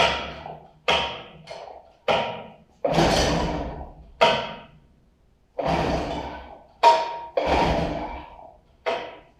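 Johnson 25 hp outboard being pull-started over and over, about ten quick pulls of the recoil starter, each a short cranking burst that dies away without the engine catching. The engine is flooded, which the owner later puts down to over-priming.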